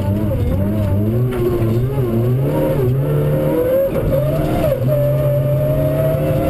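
Rally car engine heard from inside the cockpit, revs rising and falling through the bends, dipping briefly about four seconds in, then holding a steady higher note.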